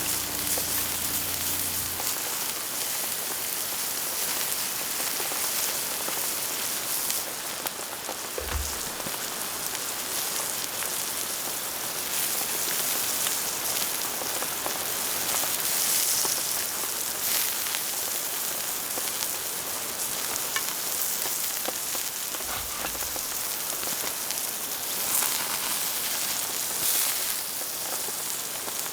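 Steady rain falling in the forest, an even hiss with scattered drips. Twice, about a third and three-quarters of the way through, a soft low thump.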